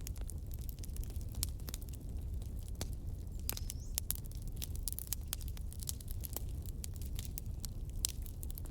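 Wood fire in a fireplace crackling: irregular sharp pops and snaps, several a second at times, over a low steady rumble.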